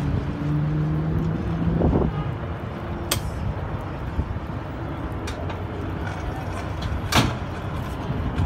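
Amtrak passenger cars rolling past at close range: a steady rumble of steel wheels on rail, with a low hum that fades out about two seconds in. Sharp clanks come about three and seven seconds in, the second one louder.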